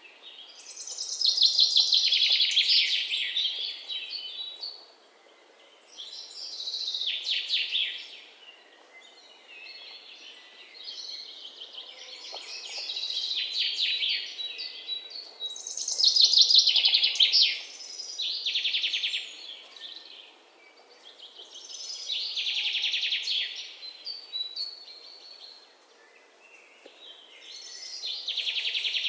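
Songbird singing: phrases of rapid, trilled chirps, each a couple of seconds long, repeating every few seconds with short quiet gaps between them.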